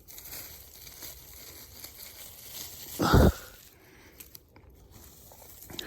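Crunching and rustling of snow being handled or walked through, with one low thump about three seconds in.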